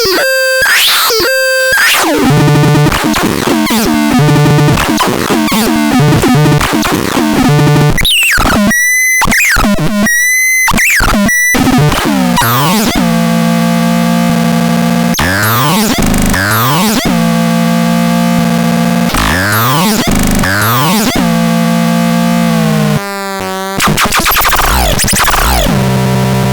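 Synthesizer playing harsh electronic sounds: stepped runs of buzzy pitched notes and short high beeps, then held low drone notes with repeated pitch sweeps gliding over them. Noisy, clashing texture, dipping briefly near the end.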